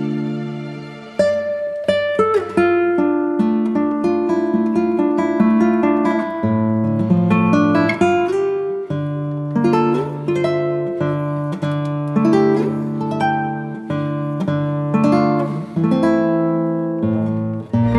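Background music played on an acoustic guitar: a melody of plucked notes, each ringing and fading, over sustained bass notes.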